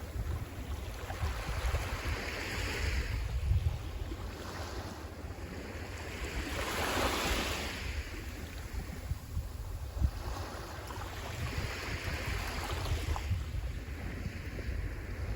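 Sea waves breaking and washing onto the shore, the surf swelling and fading three times, about five seconds apart, with wind rumbling on the microphone.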